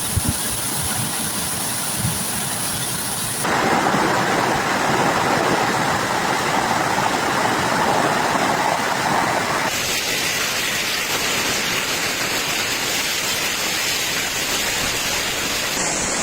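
Heavy rain pouring in a thunderstorm, a steady loud hiss across a series of clips, with the sound changing abruptly about three and a half seconds in and again near ten seconds.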